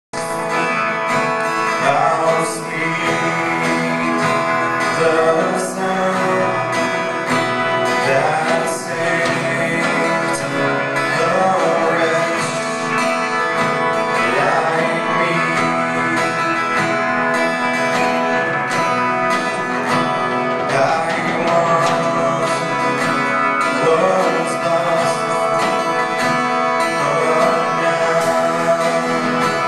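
Acoustic guitar being strummed, with a voice singing over it.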